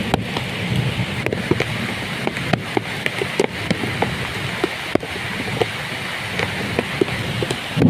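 Heavy rain falling steadily, with many separate drops ticking close by.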